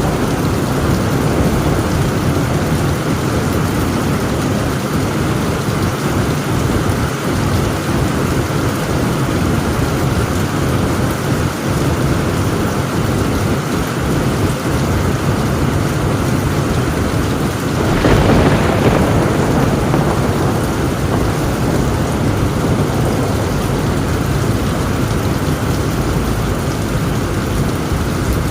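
Heavy rain drumming steadily on a tin roof, with a crack of thunder about two-thirds of the way through that dies away over a couple of seconds.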